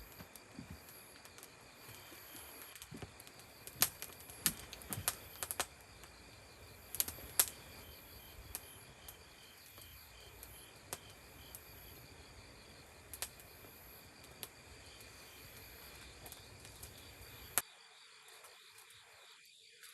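Campfire crackling, with scattered sharp pops, over a steady chirping of insects such as crickets. Near the end the low background drops out suddenly.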